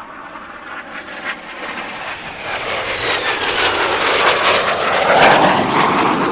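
Jet fighter flying past: the engine roar swells louder over several seconds, with a whine falling in pitch as it passes.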